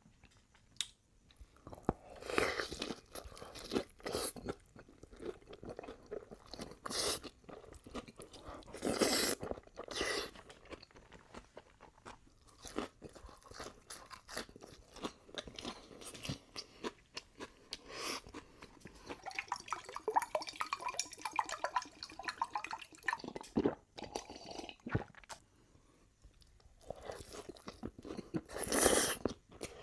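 A person chewing and crunching food close to the microphone, in irregular bites with pauses between them.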